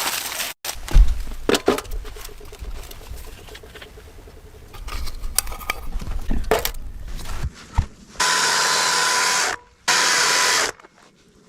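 Knocking and rustling from handling things at camp, then two loud, steady rasping noises of about a second and a half each, one right after the other, near the end.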